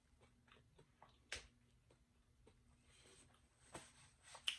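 Near silence with faint chewing and wet mouth clicks: soft scattered ticks, with a sharper click about a second in and two more near the end.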